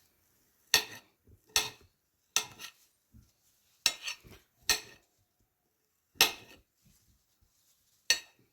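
Kitchen knife slicing through grilled chicken strips, the blade striking the surface beneath with a sharp click at each cut, seven cuts about a second apart.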